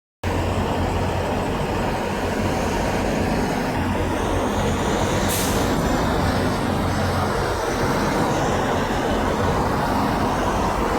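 Semi truck's diesel engine running steadily with a low rumble, and a short hiss about five seconds in.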